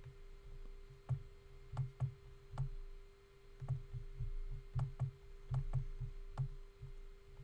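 Irregular clicks and soft knocks of a computer mouse being clicked and scrolled, a few to the second in clusters, over a steady faint hum.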